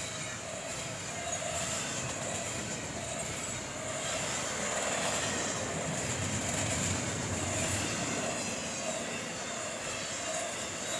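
Double-stack container well cars of a freight train rolling past at close range: a steady rumble of steel wheels on the rails, with a wavering mid-pitched ring and a thin high whine running over it, swelling slightly in the middle.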